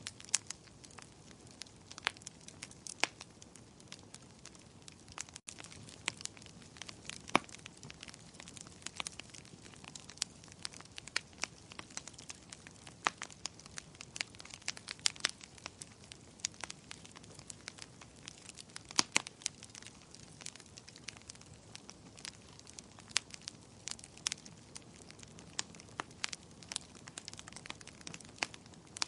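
Wood fire crackling in a fireplace: irregular sharp pops and snaps, several a second, over a soft low hiss.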